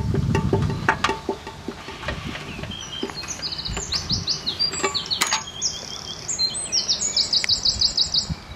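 Wild birds singing, the chirps growing thicker about three seconds in and ending in a quick run of repeated high notes. In the first two seconds, a low rumble with a few light clicks.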